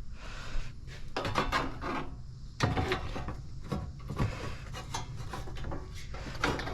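Plastic intake parts being handled and fitted by hand in a car's engine bay: irregular clicks, knocks and short scraping rubs.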